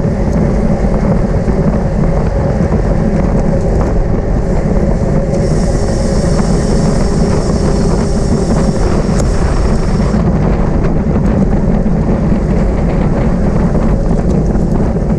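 Wind rushing over the microphone of a bike-mounted camera while riding at race speed in a bicycle criterium, a steady loud roar. A higher hiss joins for a few seconds in the middle.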